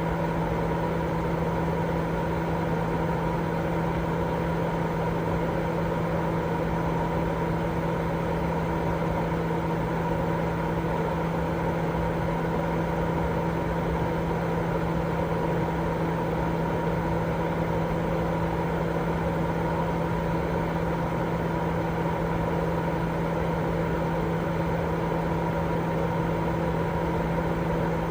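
Continuous white noise for baby sleep: a steady, unchanging rush, fuller in the low and middle range than in the highs, with a low hum and a faint steady tone running through it.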